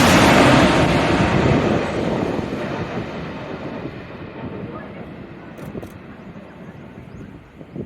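Jet airliner passing low overhead on its landing approach: the engine roar is loud at first, then fades steadily over several seconds as the plane moves away, its high-pitched part dying first.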